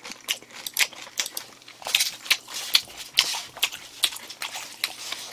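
A person chewing a mouthful of food close to the microphone: an irregular run of sharp mouth clicks several times a second.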